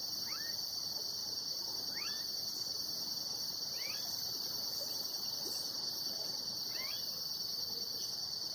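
A steady high-pitched insect chorus, a continuous trill of crickets or similar insects. A few brief sliding chirps from another animal sound every couple of seconds over it.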